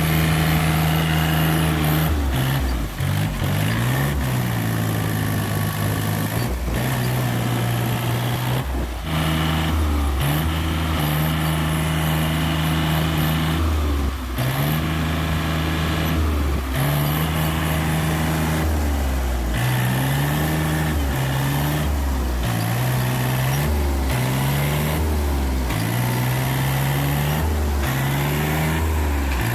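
Tractor diesel engines running, their revs rising and falling again and again.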